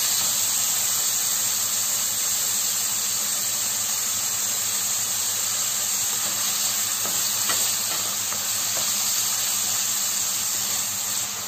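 Sliced liver sizzling steadily in hot oil in a frying pan over high heat, with a few light scrapes of a wooden spatula stirring it.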